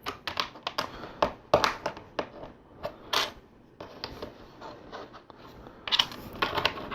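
LEGO plastic plates and bricks clicking and clattering as they are handled and pressed together on a table. Many sharp, irregular clicks, with a quick run of them near the end.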